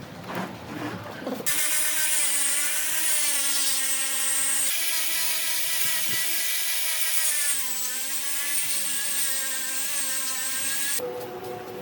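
A power tool's motor running steadily with a whine over a hiss, its pitch stepping slightly twice midway, after a few knocks at the start.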